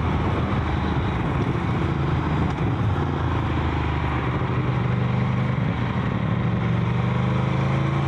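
Motorcycle engine running under way, its note held steady and beginning to climb near the end, over a steady haze of road and wind noise.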